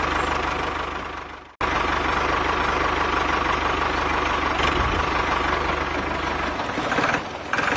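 Small engine of a DIY mini tractor saw machine running steadily with a fast low beat. The sound fades out and cuts back in abruptly about a second and a half in, and the low engine beat drops away near the end.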